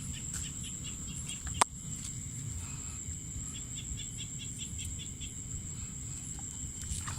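Insects, mostly crickets, keep up a steady high-pitched trill, with runs of quicker chirping over it. A single sharp click comes about a second and a half in.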